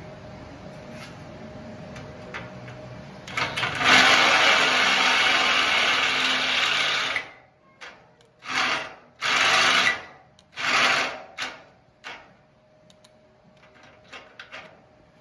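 Handheld power drill running: a faint steady hum at first, then one long run of about four seconds that stops sharply, followed by three shorter bursts on the trigger.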